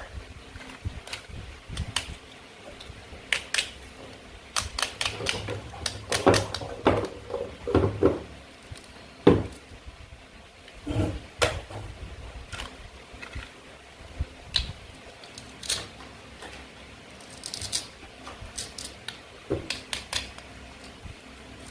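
Toy fruit and vegetables being cut apart and handled, making irregular sharp clicks and taps, some in quick clusters.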